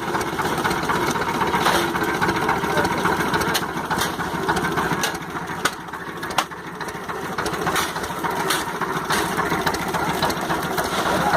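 Small fishing boat's engine running steadily, with scattered sharp clicks and knocks over it.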